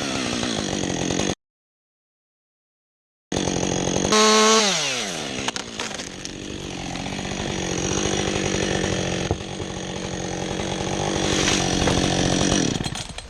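A two-stroke chainsaw runs at high revs, and its pitch falls as the throttle is let off. The sound cuts out completely for about two seconds. It then revs up again and drops back once more, and runs steadily at a lower pitch until it fades near the end.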